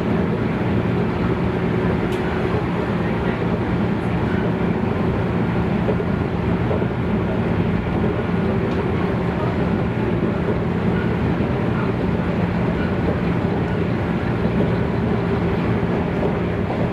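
Running noise inside a JNR 113 series electric commuter car at steady speed between stations: a constant rumble of wheels on rail with an even low hum.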